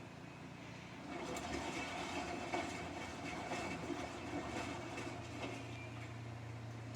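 Samsung washing machine running with a jacket inside: a steady low hum, joined about a second in by a louder, uneven wash noise that carries on.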